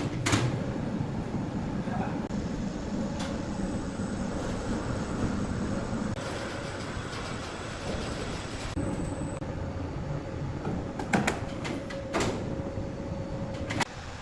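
Large sawmill wood saw running with a steady mechanical rumble and a held whine. Sharp knocks come twice at the very start and again a few times near the end.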